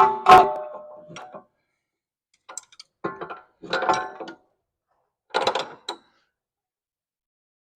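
Metal hand tools and parts clanking against each other: two sharp ringing strikes at the start, then a few short bursts of clicking and clatter.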